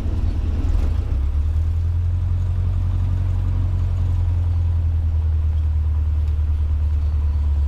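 Cessna 150's four-cylinder Continental O-200 engine running steadily at low, near-idle power, heard from inside the cabin as an even, deep drone.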